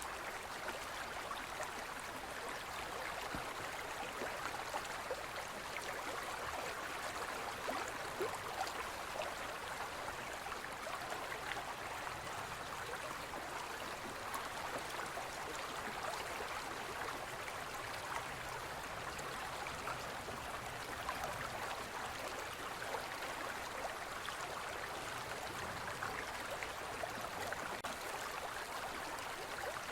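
Forest stream flowing steadily over stones, a constant babble of water with small splashes.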